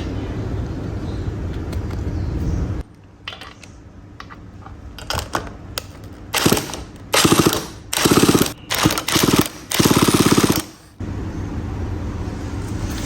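Vintage Stihl chainsaw's small two-stroke engine firing in several short bursts of rapid, even pulses, each cutting out after a second or so, as if catching and dying while being started. A steady low hum runs before and after the bursts, stopping abruptly about three seconds in and starting again about eleven seconds in.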